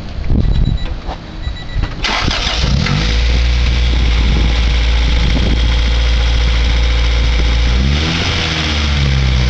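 Honda LS-VTEC engine with an open header cranking on the starter and catching about two seconds in. It then settles into a steady, loud idle, which sags briefly near the end and picks back up.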